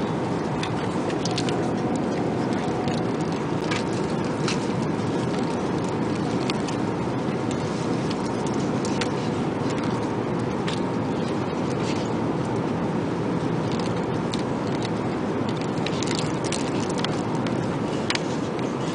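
Steady in-flight cabin noise of an Airbus A380, with frequent light clinks and clicks of metal cutlery against meal dishes.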